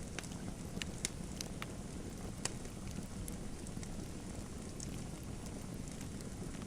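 Wood fire burning in a fireplace: a steady low rumble with scattered sharp crackles and pops, a louder pop about two and a half seconds in.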